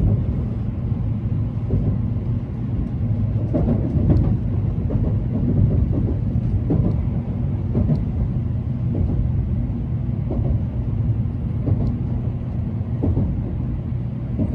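Tokaido Shinkansen train running, heard inside the passenger car: a steady low rumble with a faint hum and occasional light knocks.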